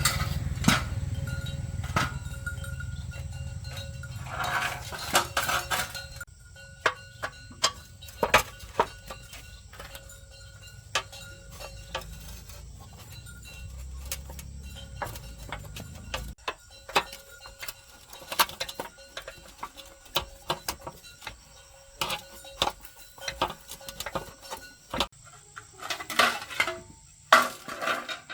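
Metal tools and parts clinking and tapping in irregular knocks during motorbike repair work. A low steady hum runs underneath for the first half and cuts off suddenly a little over halfway through.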